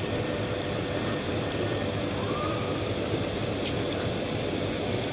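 Steady rumble of a passenger express train's coaches rolling past on the rails as the last coach goes by.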